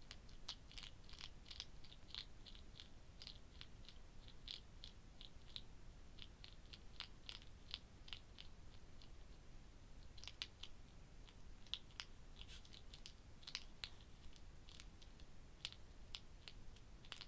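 Hedgehog chewing cat food: quick, faint crunching clicks in bursts, with a pause of about a second near the middle.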